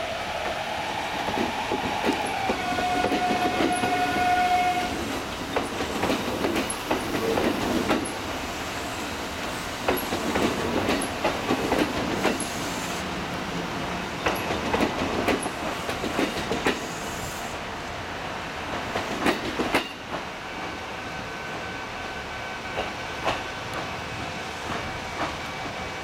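Kintetsu 21020 series Urban Liner Next electric train rolling slowly over the points into the depot, its wheels clacking over rail joints and switches in groups every couple of seconds. A rising, then steady, motor whine is heard in the first few seconds.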